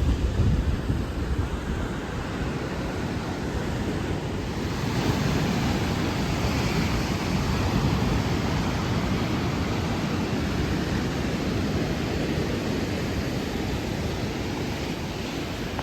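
Sea surf breaking and washing on a beach, a continuous rushing that grows fuller about five seconds in, with wind buffeting the microphone.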